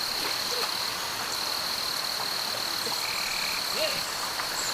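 Forest ambience at a waterfall: a steady high-pitched insect drone over the even rush of falling water, with a few short croaking calls.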